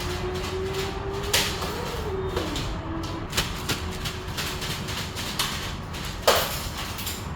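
A small motor whines steadily, its pitch creeping up and then wavering about two seconds in, among irregular clicks and knocks; the sharpest knocks come about one and a half seconds in and near the end.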